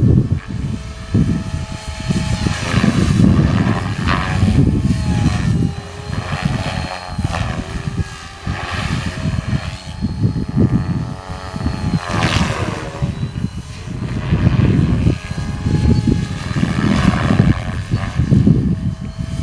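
MSH Protos electric RC helicopter's rotors and motor whining, the pitch gliding up and down again and again as it is thrown through 3D manoeuvres. Strong wind buffets the microphone with a heavy, fluctuating rumble underneath.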